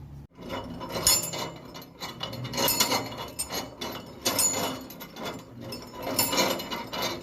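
Grass chopper machine cutting grass with its blades, giving irregular crunching, rasping bursts about once or twice a second as material is fed in.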